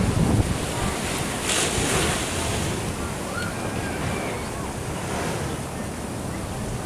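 Ocean surf washing in at the shore, with wind buffeting the microphone in a steady low rumble.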